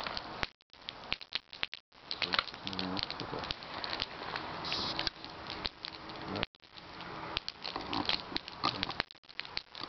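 Campfire crackling, with many sharp pops and snaps of burning wood.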